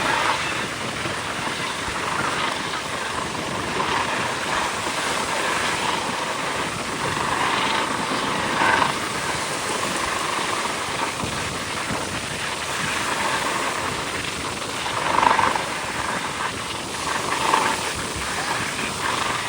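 Steady noise of distant aircraft, with a few brief louder swells.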